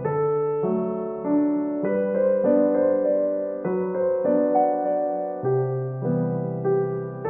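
Background music: a piano-style keyboard playing gentle, sustained notes and chords, changing about every half second to a second, with no drums.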